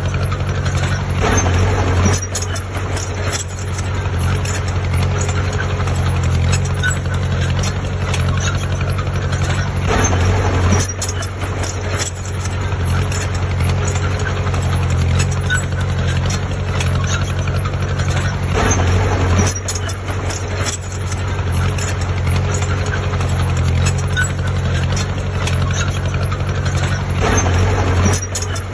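Heavy diesel engine of an earthmoving machine running steadily, with louder surges about every eight to nine seconds.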